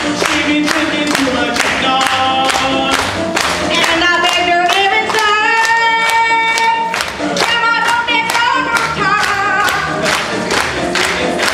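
Show choir singing a song, with long held notes over a steady beat of about three strokes a second.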